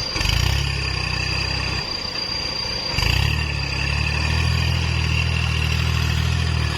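Kubota tractor's diesel engine running while it works the field, with a steady high whine over it. The engine's even note breaks up about two seconds in and comes back louder about a second later.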